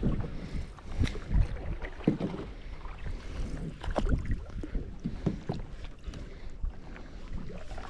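Canoe paddles stroking and splashing through the water, with short splashy knocks about every second or so. Beneath them is an uneven low rumble of wind on the microphone.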